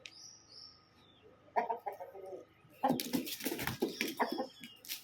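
Aseel chickens clucking: a high chirp at the start and a short call about a second and a half in. From about three seconds in comes a loud flurry of rapid flapping and scuffling noises.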